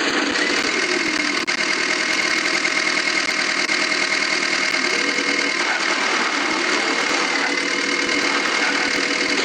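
Tractor engine running steadily under load, its pitch dipping briefly and coming back up a few times.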